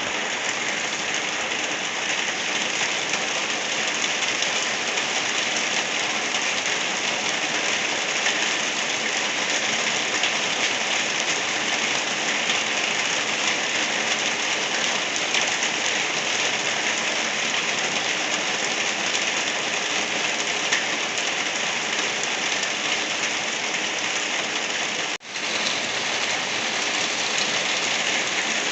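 Light rain falling steadily, an even patter of drops on a surface. It cuts out for a split second about 25 s in.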